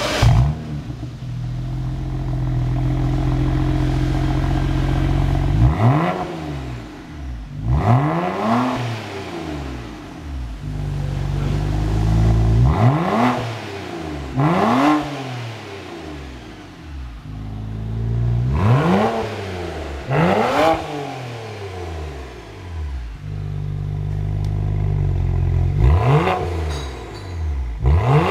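Exhaust of a BMW E92 335's turbocharged straight-six being revved while the car is stationary: held at steady revs, then blipped twice, the revs rising and falling quickly. The cycle repeats about four times.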